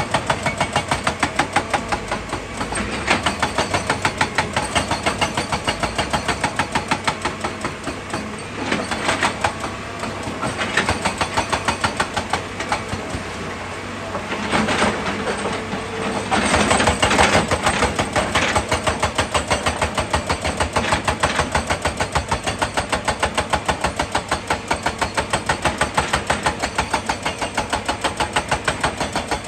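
Excavator's diesel engine running with an even, rapid pulsing beat, getting louder for a few seconds around the middle as it works harder.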